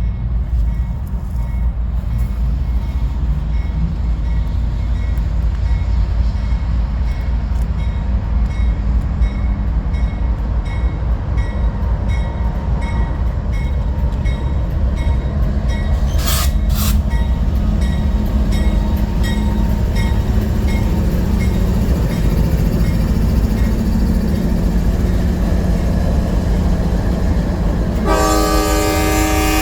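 A train rolling past with a steady low rumble and regular clicking of wheels over rail joints, with a brief loud clank about two-thirds of the way through. Near the end a locomotive's air horn starts blowing a chord of several tones.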